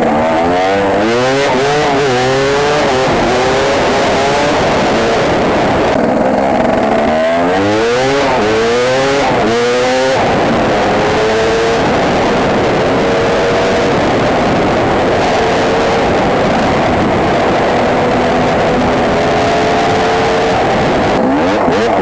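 Freshly rebuilt KTM EXC two-stroke dirt bike engine running in, revving up and down several times. About halfway through it settles to a steady pitch for around ten seconds, then revs up again near the end.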